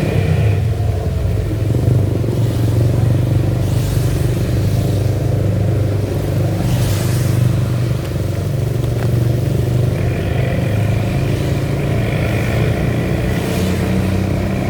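Vehicle engine running with a steady low drone while driving through heavy rain, with a noisy hiss of rain and wet road over it that swells several times.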